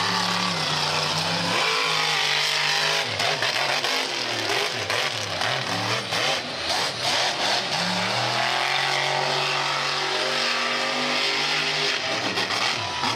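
Monster truck engine revving hard, its pitch rising and falling several times, with knocks and clatter in the middle.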